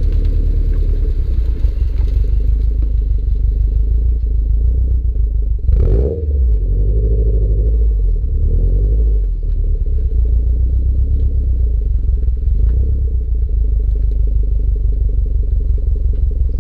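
Subaru Impreza STI hatchback's turbocharged flat-four running through its standard exhaust with a steady deep rumble, with a short change in the engine note about six seconds in.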